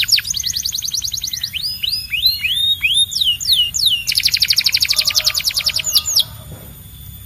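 Domestic canary singing: a rapid trill of repeated notes, then a run of sweeping whistled notes, then another fast trill that breaks off about six seconds in.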